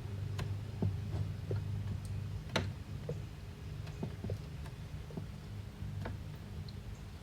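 Scattered light clicks and taps at an irregular pace, a few each second, over a steady low hum; one sharper click comes about two and a half seconds in.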